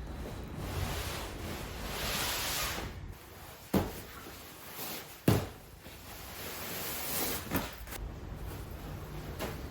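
Rustling as gear is handled, with two sharp knocks about a second and a half apart, like things being set down or a cupboard being shut.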